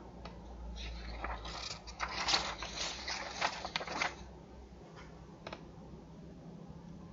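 Computer keyboard typing: a quick run of key clicks about a second in, lasting some three seconds, then two single key presses.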